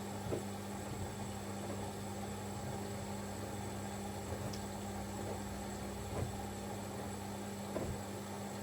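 Siemens Extraklasse XLS 140 A front-loading washing machine running early in a 90 °C boil-wash cycle, a steady hum and noise with a few soft knocks.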